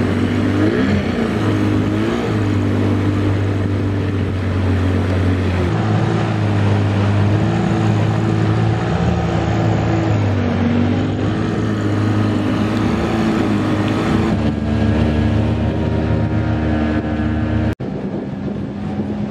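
Outboard motor on a small wooden skiff running steadily, its engine speed shifting up and down a few times. The owner hears it starving for water and takes this for the leg sitting too high in the water.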